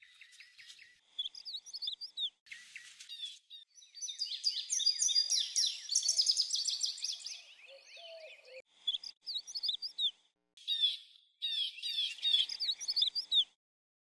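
Songbirds chirping and warbling, several at once, in short stretches that start and stop abruptly with silent gaps between them. The calls are busiest and loudest in the middle and cut off just before the end.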